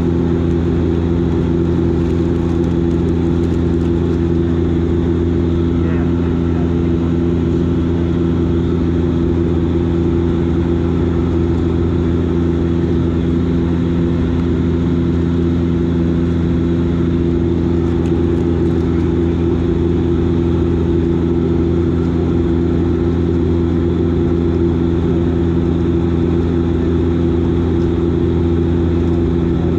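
Steady cabin drone of a Dash 8 Q400's Pratt & Whitney PW150A turboprops and six-bladed propellers: a constant low hum with several fixed tones that does not change.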